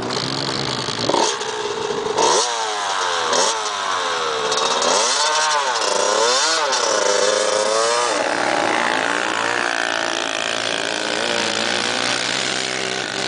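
Dirt bike engine revving up and down over and over, its pitch rising and falling about once a second, then running more steadily in the last few seconds.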